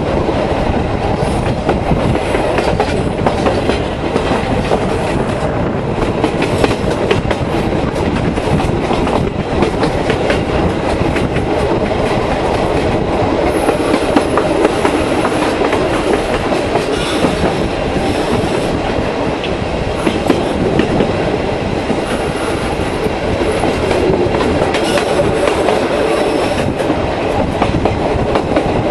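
Tourist-train carriages running along the line, the wheels clattering over the rails under a steady rumble, heard from an open carriage window.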